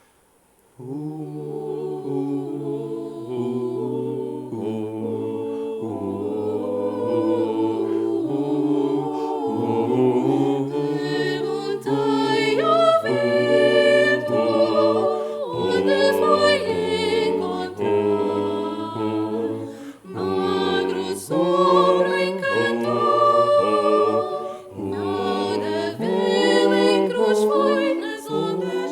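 Vocal ensemble singing a cappella in several-part harmony, with low voices holding sustained notes under moving upper parts. It enters about a second in after a moment of quiet and carries on as a phrased chorale.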